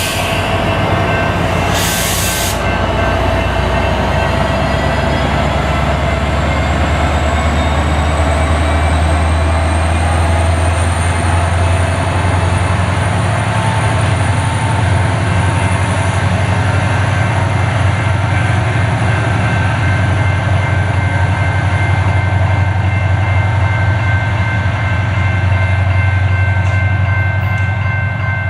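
A train running close by: heavy diesel locomotive rumble with several steady high tones over it, and a thin whine that climbs over the first dozen seconds and then holds.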